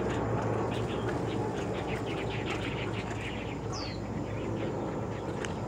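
Forest ambience with birds calling: a run of quick chirps around the middle and a single short falling whistle about four seconds in, over a steady rushing background.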